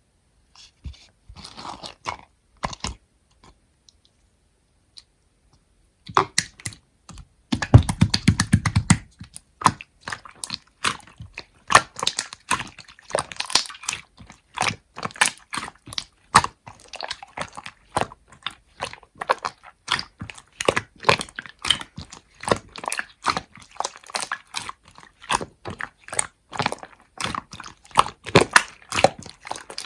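Slime being squeezed and poked by hand: a few scattered wet clicks at first, then from about six seconds in a dense, continuous run of sticky pops and crackles, with a deeper squelch around eight seconds.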